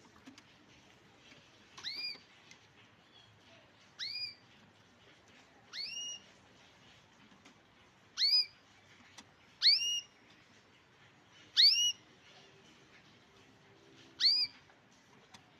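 Grey canary calling: a short upslurred call note repeated seven times, roughly one every two seconds, the later calls louder.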